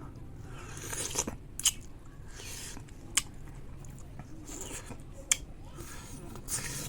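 Close-up mouth sounds of someone chewing and biting sour bayberries, with soft wet smacking and three sharp clicks spread about a second and a half apart.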